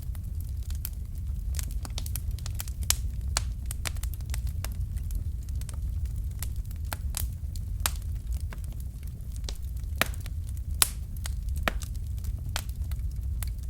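Fire in a fireplace crackling: frequent sharp pops and snaps over a steady low rumble, with a couple of louder pops about three seconds in and near eleven seconds.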